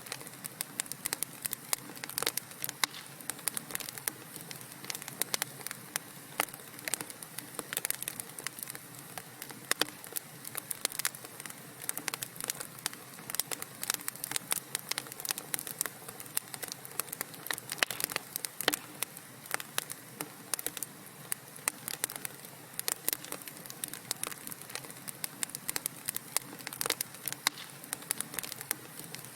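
Wood fire crackling in a fireplace: a dense run of sharp pops and snaps, several a second, over a soft steady hiss.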